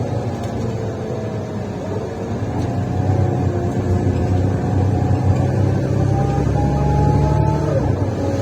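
Mercedes-Benz Citaro C1 Ü bus under way, heard from inside: a loud low engine drone through its defective exhaust, with a whine that glides up and down in pitch. The sound grows louder a few seconds in, and the whine rises and then drops abruptly near the end.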